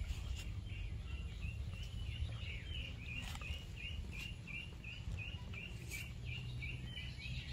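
A bird calling outdoors: one short high chirp repeated about three times a second, over a steady low rumble of outdoor background noise.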